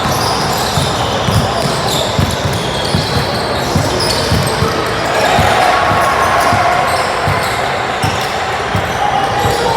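A basketball bouncing repeatedly on a gym floor in irregular thuds during play, with short high squeaks and voices of players and spectators in the background.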